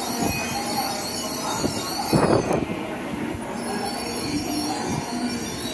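N700A Shinkansen train rolling slowly into the platform and braking to a halt, with a high-pitched squeal from wheels and brakes over the train's rumble. The squeal breaks off for about a second midway, then returns. A louder swell of noise comes about two seconds in.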